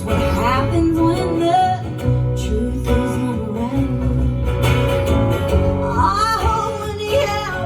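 Live band playing a country-style song: guitar with a singer's voice over it.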